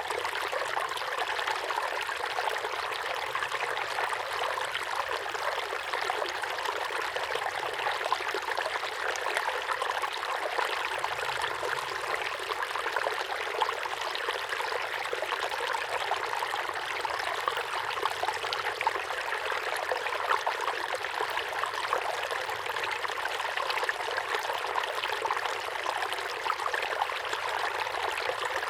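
Small waterfall pouring steadily into a pond, a continuous splashing and trickling of falling water.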